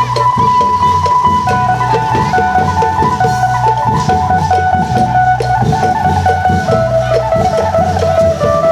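Isan klong yao ensemble playing: long drums and other percussion beat a dense, steady rhythm under an amplified phin (Isan lute) melody that moves in held notes.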